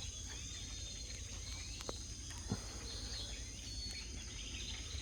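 Early-morning insects and birds: a steady high-pitched insect drone, with short bird chirps scattered through it.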